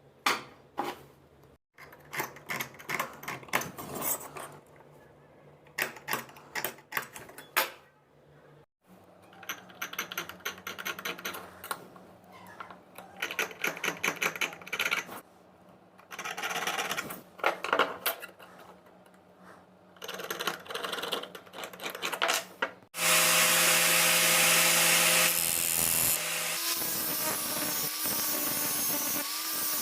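Hand-tool work on steel in short bursts of rapid strokes, with pauses between them. About 23 seconds in, a power tool starts and runs steadily and loudly.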